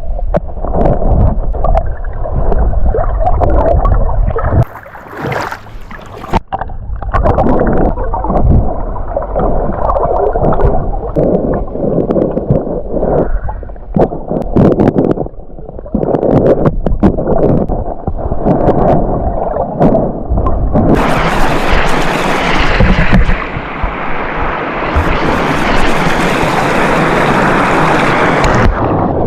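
Muffled sloshing and gurgling of creek water as someone wades and swims through it. About twenty seconds in, a brighter, hissing rush of water joins in.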